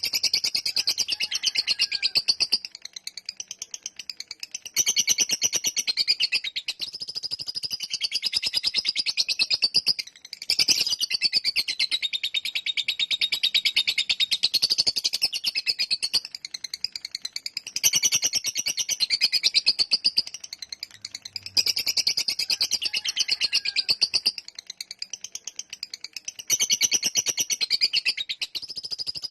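Lovebird chattering in long runs of very rapid, shrill trilled notes. Each run lasts several seconds, with short breaks between them: the long chatter bird keepers call ngekek panjang.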